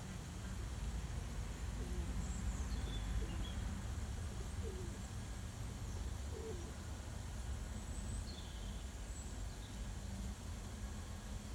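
A few short, soft, low bird calls spaced a second or more apart, with faint high chirps of small birds over a steady low rumble.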